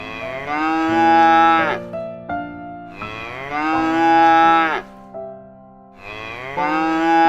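Cow mooing three times, each a long call of about two seconds that dips slightly in pitch at the start, over a soft, steady keyboard tune.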